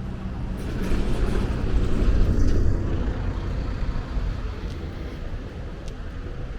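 A heavy vehicle passing close by on the street: a low engine rumble that swells to its loudest about two seconds in, then fades over the next few seconds.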